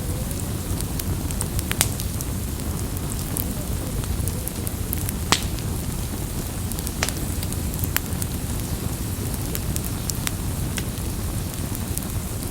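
Campfire burning: a steady low rush of flame with frequent sharp crackles and pops from the burning wood, one louder pop about five seconds in.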